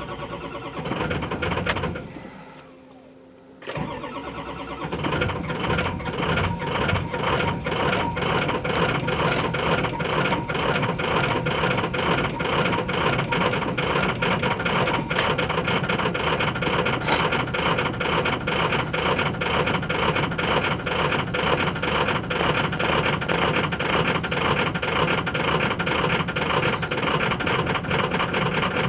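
Ford 6.0 Power Stroke V8 turbo-diesel being cranked by its starter in the cold: a short crank, a pause of about two seconds, then a long continuous crank with a fast pulsing rhythm as it struggles to fire. It is a hard cold start, the engine not having been plugged in to its block heater.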